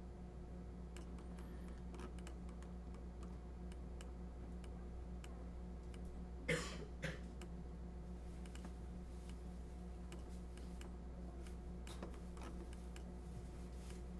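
Scattered light computer mouse and keyboard clicks over a steady electrical hum. Near the middle there is a louder short sound twice, about half a second apart.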